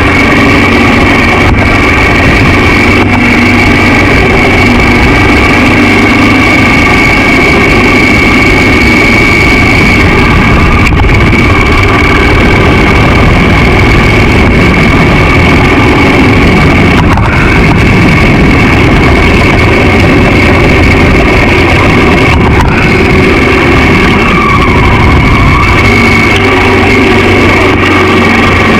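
Honda XR650L dual-sport motorcycle's air-cooled single-cylinder four-stroke engine running steadily while the bike is ridden.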